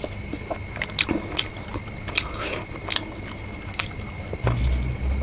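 Close-miked eating: biting into and chewing a fried chicken lollipop with chowmein noodles, with many short, wet, crackly mouth clicks. A steady faint high-pitched hum sits behind it, and a low rumble comes near the end.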